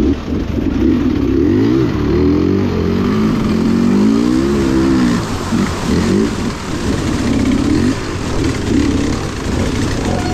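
Off-road vehicle engine revving hard and unevenly, its pitch climbing and dropping again and again as the throttle is worked.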